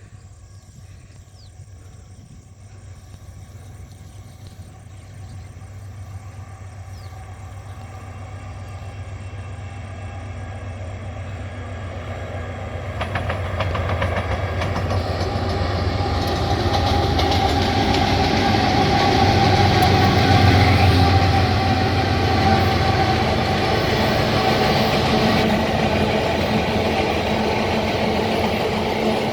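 Diesel freight train approaching and passing: a low engine drone grows steadily louder, and about thirteen seconds in the rumble and hiss of wheels on rails joins it, loudest about twenty seconds in and staying loud as the train goes by.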